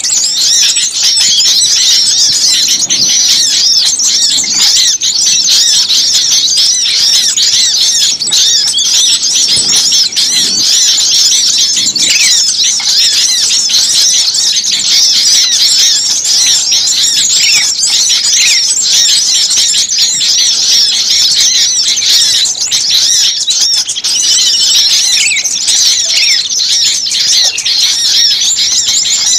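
A dense chorus of many small songbirds chirping and twittering at once without a break, high-pitched. It is a bird-trapping lure recording of noisy small birds, played to call other birds in.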